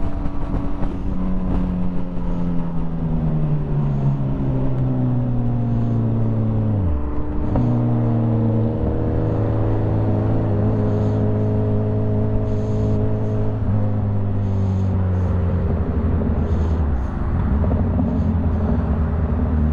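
Motorcycle engine running at road speed. Its pitch falls slowly, dips sharply and recovers about seven seconds in, holds steady, then dips briefly again near the end and settles lower.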